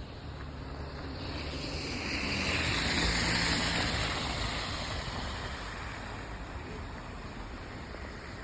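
A car driving past on a snowy street: tyre hiss and a low engine hum swell, peak about three seconds in, and fade away.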